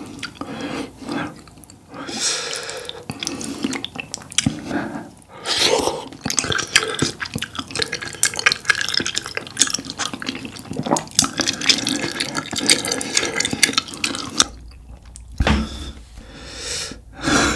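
Close-miked wet eating sounds: a mouthful of saucy spicy tteokbokki being chewed, with quick sticky smacks and clicks, dying down about three seconds before the end.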